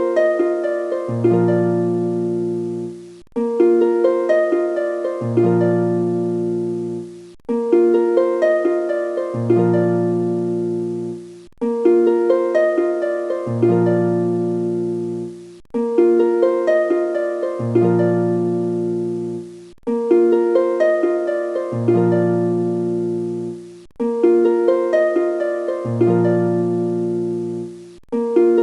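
Background music: a short harp-like plucked-string phrase, repeated in an identical loop about every four seconds.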